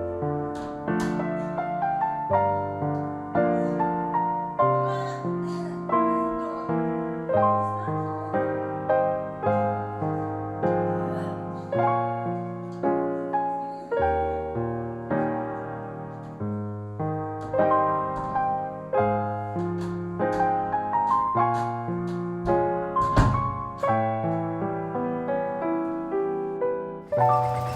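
Background solo piano music: a steady succession of struck notes and chords, each ringing and fading. It gives way to a different sound just before the end.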